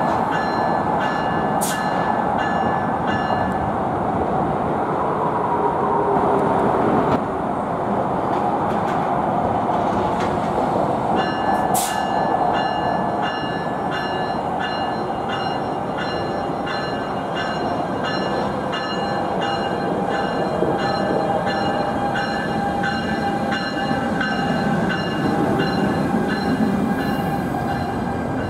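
NJ Transit ALP-45DP locomotive and its coaches arriving slowly at a station platform, with a steady rolling rumble. A bell rings about twice a second through most of it, pausing for several seconds near the first third.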